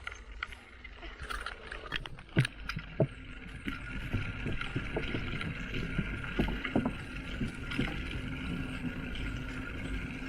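Bicycle riding: scattered knocks and rattles, loudest in two sharp knocks about two and three seconds in, over a steady running noise.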